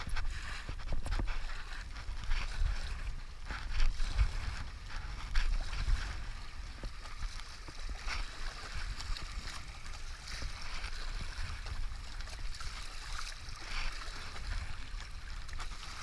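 River water rushing and splashing around a stand-up paddleboard, with scattered short splashes of paddle strokes. Gusting wind rumbles on the microphone throughout, strongest in the first half.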